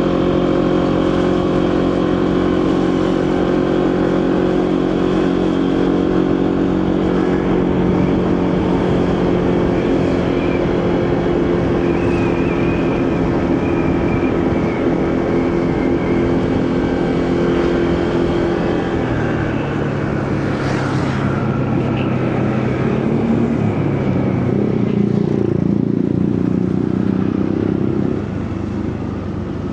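Motorcycle engine running steadily while riding, with road and wind noise. About two-thirds of the way through, the engine note drops to a lower, steady pitch.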